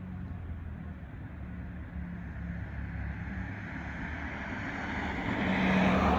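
A school's heating system running with a steady low hum, the howling noise it keeps making. A rushing noise builds and grows louder near the end.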